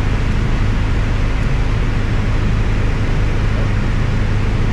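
Piper Cherokee 180's four-cylinder Lycoming O-360 engine and propeller droning steadily at reduced approach power, heard from inside the cabin. The engine is newly installed and still in break-in.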